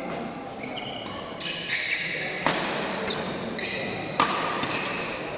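Badminton doubles rally in a hall: two sharp racket hits on the shuttlecock, about a second and a half apart, over repeated short squeaks of shoes on the court.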